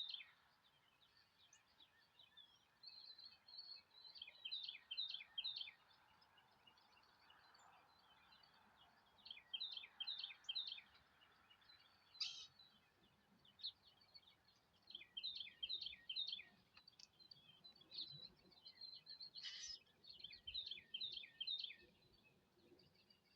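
A songbird singing faintly, repeating a short phrase of rapid, high, falling notes about every five seconds, with a couple of sharp single calls in between.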